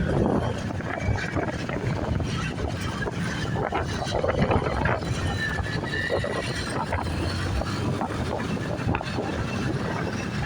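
Wind rushing over the microphone of a moving motorbike taxi, with the motorbike's engine and street traffic running underneath.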